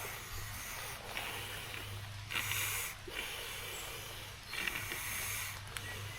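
A person breathing hard, with loud hissing breaths roughly once a second, over a steady low hum.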